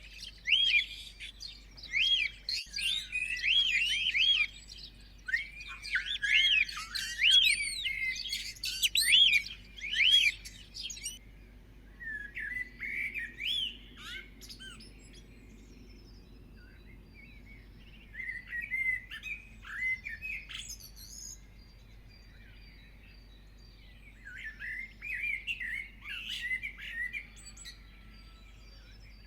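Small songbirds chirping and twittering in quick, overlapping chirps. They are dense for the first ten seconds or so, then come in scattered bursts with short lulls between.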